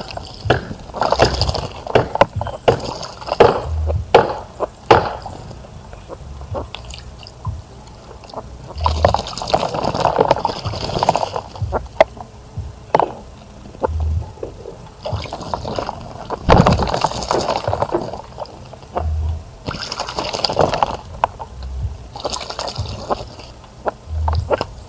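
Small birds bathing in a bird bath, splashing water in repeated spurts of a second or two, with sharp drips and flicks of water in between.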